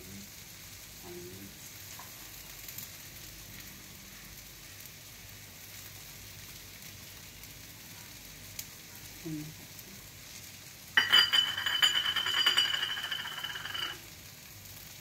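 Steady faint sizzle of food frying in a pan. About eleven seconds in, a much louder hissing burst with a high steady whistle-like tone and rapid clicking starts abruptly, lasts about three seconds, and cuts off suddenly.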